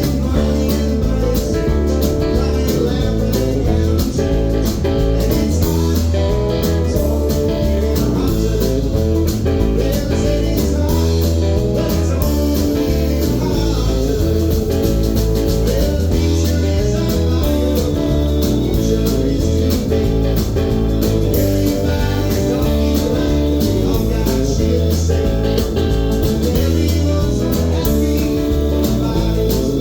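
Live band music led by guitars over a steady bass line, with some singing.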